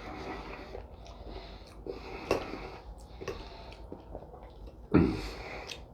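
A man breathing and sniffing hard through his nose while eating, with scattered light clicks. A short, loud voiced sound comes about five seconds in.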